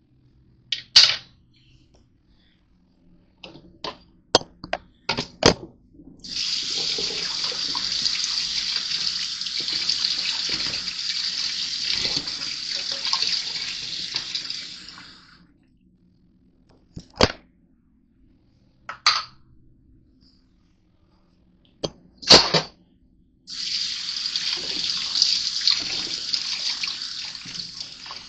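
Kitchen tap turned on and running into a sink for about nine seconds, then turned on again near the end, with knocks and clatter between the two runs.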